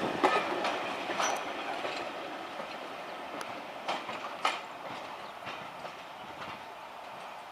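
Train hauled by a British Rail Class 73 locomotive pulling away and receding: a steady rumble fading out, with scattered clicks and clacks of wheels crossing rail joints.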